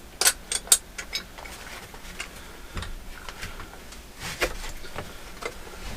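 Metal lap-belt buckle and hardware being handled and fastened: scattered sharp clicks and clinks, several in quick succession in the first second, then a few more spaced out.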